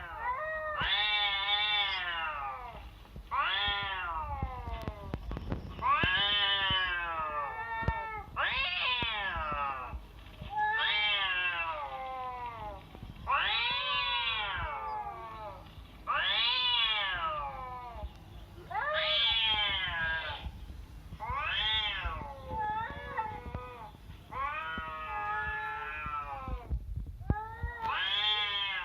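A cat meowing over and over: about a dozen long, drawn-out meows, each rising and then falling in pitch, one every two to three seconds.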